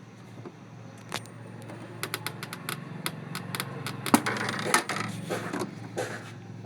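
Epson L-series inkjet printer mechanism running: a low steady hum with a run of sharp mechanical clicks and rattles that starts about a second in and grows busier.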